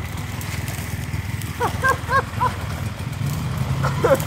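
Enduro motorcycle engine running at low revs, a steady low drone that picks up slightly in the second half as the bike is worked through deep mud and water. Over it come a few short, high, rising-and-falling cries: three or four in quick succession about two seconds in, and another near the end.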